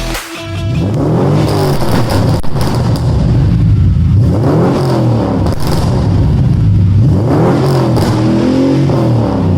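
2015 Jeep Grand Cherokee's 5.7-litre Hemi V8 revved through a stainless-steel CCP cat-back exhaust, blipped about four times with the pitch rising and falling each time, between spells of idle.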